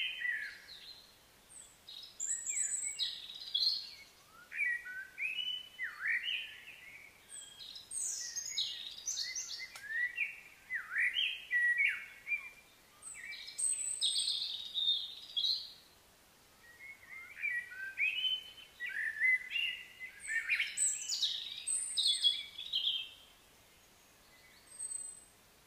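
Songbirds chirping and calling in a busy run of short, quickly rising and falling notes, with a brief lull near the middle and another near the end.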